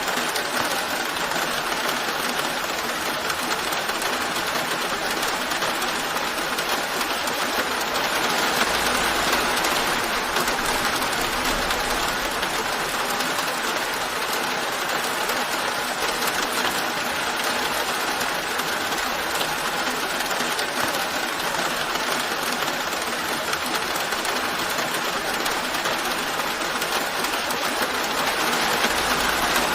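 Steady rain falling, an even hiss that stays constant throughout.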